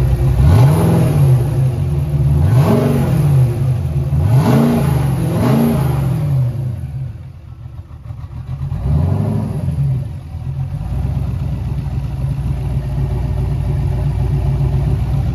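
LS-series V8 fitted with a FAST LSXR 102 mm intake, revved five times by hand at the throttle body. Each rev rises and falls quickly, and there is a short gap after the fourth. It then settles into a steady idle.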